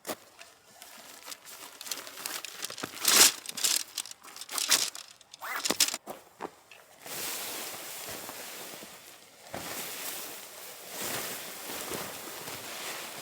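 Crinkling and rustling of handled material, with a few sharp crackles in the first half, then a steadier rushing rustle.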